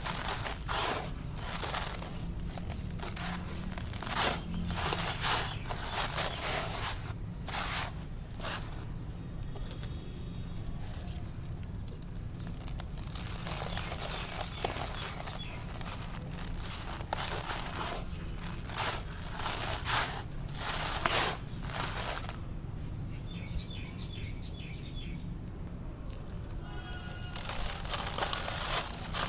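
Dry, dusty concrete crumbling and crunching as it is broken apart, in uneven bursts of crackling with short pauses, and two quieter spells. Faint chirping can be heard during the quieter stretches.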